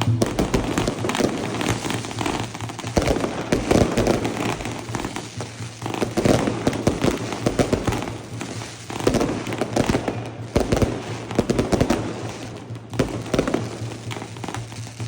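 Fireworks going off in a dense, continuous crackle of rapid pops that swells and eases in waves.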